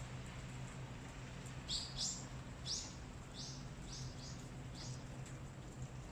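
A run of about seven short, high-pitched chirps, quick and evenly spaced, over a steady low hum.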